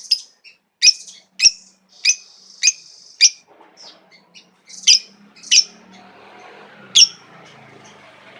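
Lovebird calling in short, sharp, shrill chirps, about one or two a second, with a break of about a second and a half around four seconds in. A faint low hum and hiss comes in under the calls about halfway through.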